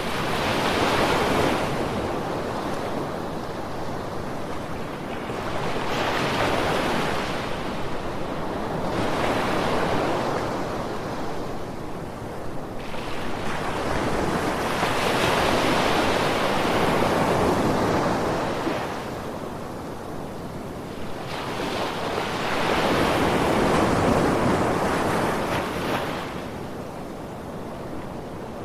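Ocean waves washing onto a sandy beach, the surf rising and falling in slow swells about five times.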